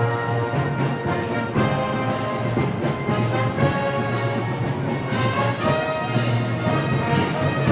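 Brass band playing Moros y Cristianos festival music: sustained brass chords over a steady low drum, with cymbal crashes about once a second.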